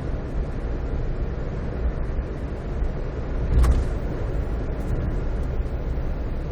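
Car driving along a road: a steady low rumble of tyre and road noise with the engine running underneath. About halfway through there is a single brief thump, like a wheel going over a bump.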